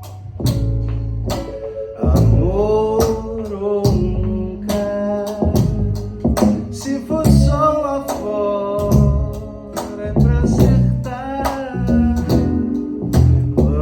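Live band performing a song with vocals over guitar, bass and drums.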